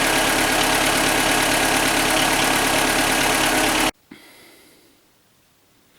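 Skoda Fabia 1.4 16-valve four-cylinder petrol engine (BKY) idling steadily; the owner complains of piston knock, and only a light, barely audible knock has been heard in it. The sound cuts off abruptly about four seconds in, followed by a single click and faint room tone.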